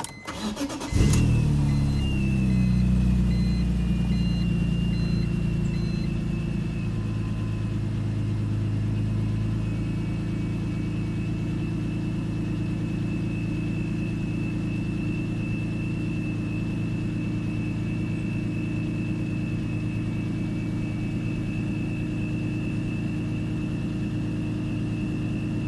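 Dinan S3-tuned BMW M3 cold start: the starter cranks for about a second, then the engine catches with a loud burst and settles into a steady idle, easing down a little over the first few seconds. A thin high whine runs along with the idle.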